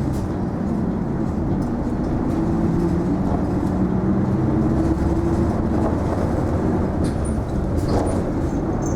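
Isuzu Erga non-step city bus heard from inside the cabin: the diesel engine runs with a steady hum whose pitch shifts slightly, over road and running noise. There are a few faint clicks near the end.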